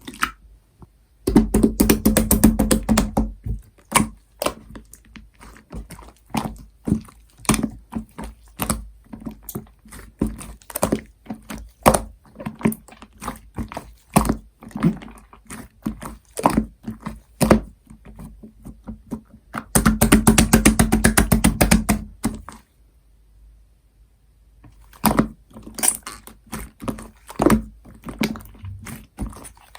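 Clear slime being squished and kneaded with shaving foam, giving irregular sticky clicks and pops of trapped air. Two stretches of fast, dense crackling come about a second in and around twenty seconds in, and there is a brief lull shortly after.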